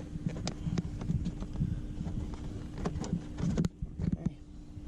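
Plastic interior trim panel of a car being worked into place by hand: a run of light clicks and knocks, with one sharp click about three-quarters of the way through, over a steady hum.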